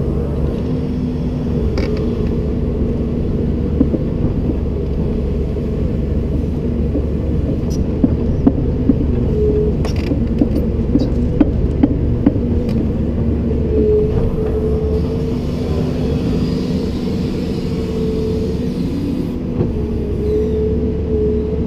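Komatsu PC290-10 excavator running steadily, its engine drone overlaid with a whine whose pitch shifts now and then. A scatter of sharp knocks and clanks comes between about eight and thirteen seconds in.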